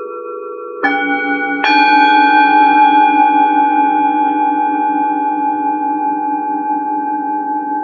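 Singing bowls struck one after another: two strikes about a second apart near the start, each adding a new ringing tone over the one still sounding, the tones fading slowly and evenly.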